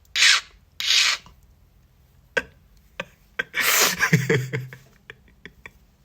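A person's short breathy bursts, like coughs and throat sounds. Two come near the start, and a longer, throatier one comes about four seconds in, with a few light clicks between them.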